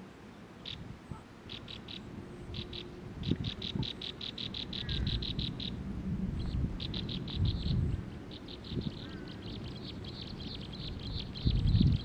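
Rapid series of high, short chirps at a prinia's nest, about eight a second. They come in short runs at first, then a longer run, then an almost unbroken string in the second half. A low, uneven rumble sits underneath.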